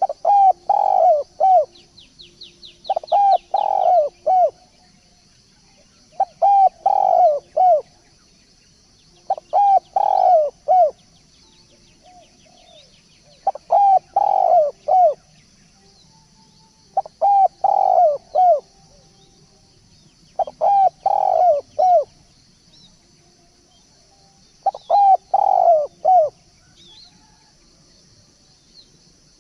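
Spotted dove (tekukur) cooing, a lure call: a short phrase of several low coos repeated about every three to four seconds. A faint steady high hiss runs underneath, and faint small-bird chirps come in the first few seconds.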